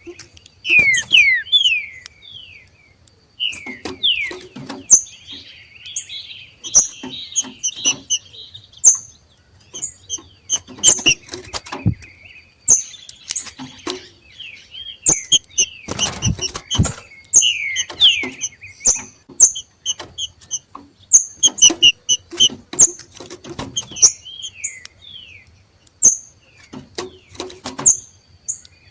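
Two trinca-ferros (green-winged saltators) giving their macheado, a rapid clicky chatter that birds of this species give when they come into breeding condition. It comes in irregular bursts of sharp high chips and short falling slurred notes.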